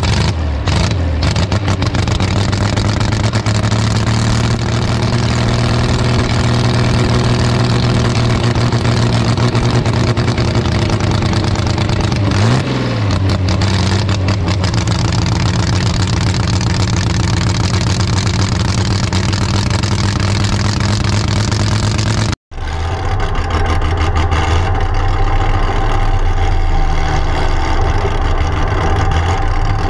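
Holden grey motor inline-six in a dragster, running steadily at low speed under its driver, heard on board, with a quick throttle blip about halfway through. The sound cuts out abruptly for an instant about three quarters of the way through, then the engine is heard running steadily again.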